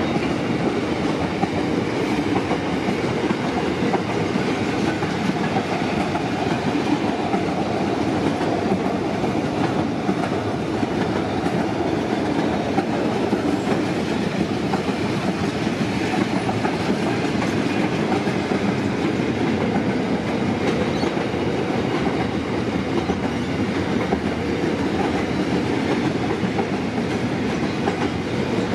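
Empty container flat wagons of a long standard-gauge freight train rolling past: a steady noise of steel wheels running on the rails.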